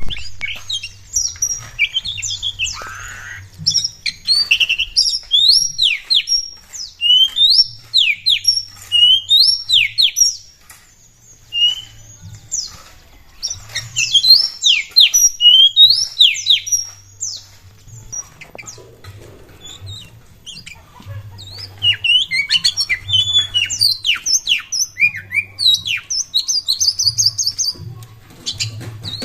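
Oriental magpie-robin (kacer) in full song: a long, varied run of rapid sweeping whistles and chirps, broken by a few short pauses.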